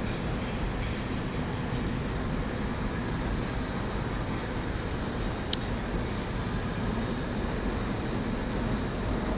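London Underground train pulling into the platform: a steady running rumble with a faint hum, and one short, sharp high squeak about five and a half seconds in.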